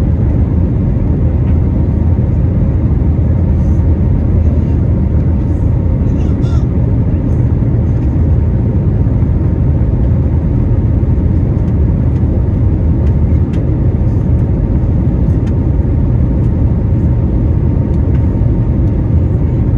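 Airbus A321neo jet airliner climbing after takeoff: a loud, steady, deep rumble of engines and airflow with a faint steady hum on top.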